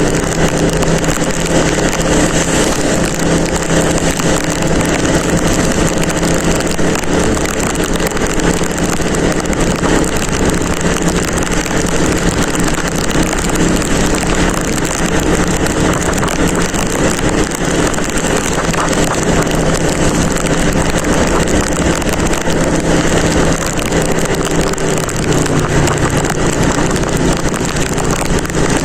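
Motorcycle engine running steadily while riding in the rain, under loud wind noise on the microphone. The engine note shifts a little near the end.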